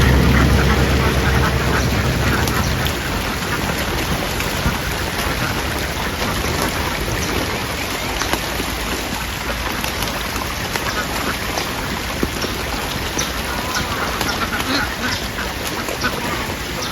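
A large flock of domestic ducks quacking together in a dense, continuous chorus. A low engine hum fades out over the first few seconds.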